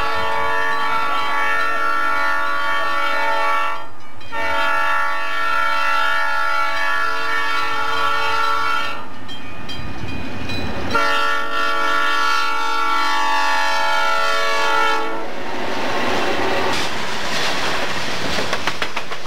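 Diesel freight locomotive's air horn sounding for a grade crossing: two long chord blasts, a gap of about two seconds, then a third long blast. After that come the rumble and rapid clacking of freight cars passing close by.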